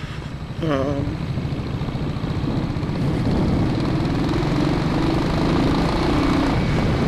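Royal Enfield single-cylinder 'thumper' motorcycle engine running under way, heard from the rider's helmet. It pulses rapidly and gets louder over the first few seconds, then holds steady.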